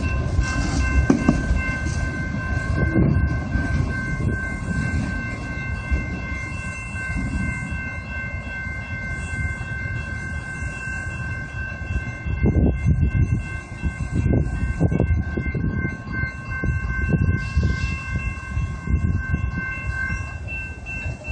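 Freight train rolling through a grade crossing: a continuous low rumble with wheels knocking over the rail joints, the knocks heavier in the second half. Several steady high tones ring over it almost throughout, one dropping out near the end.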